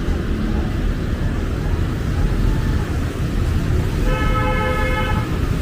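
Steady urban traffic rumble, with a horn sounding once for about a second near the end.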